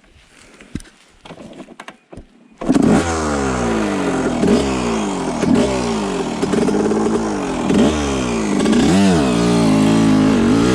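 1987 Honda CR125's single-cylinder two-stroke engine: a few knocks and clatter, then the engine catches abruptly about two and a half seconds in. It then runs with repeated throttle blips, the revs rising and falling several times.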